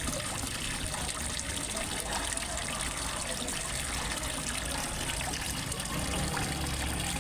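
Steady trickle and splash of water falling into a fish pond.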